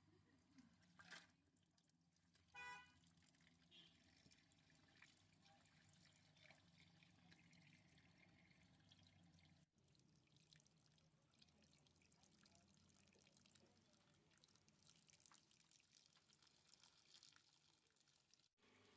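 Faint water pouring and trickling while a freezer is defrosted with water, with a short high toot about three seconds in.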